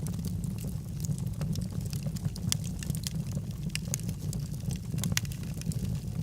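Wood fire burning in a fireplace: a steady low rumble of flames with logs crackling and popping in irregular sharp snaps, several a second.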